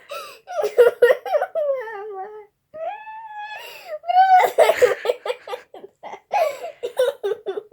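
A young child laughing and making whiny, sob-like squeals in a high voice, in several bursts.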